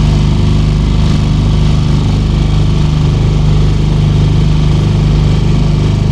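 Leisure hire motorboat's engine running steadily at close range, a loud, even low drone.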